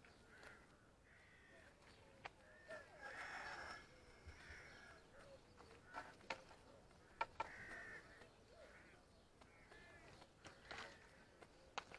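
Faint bird calls outdoors, a handful of short calls spread out, with a few sharp clicks from the fishing tackle being handled as a fish is played in.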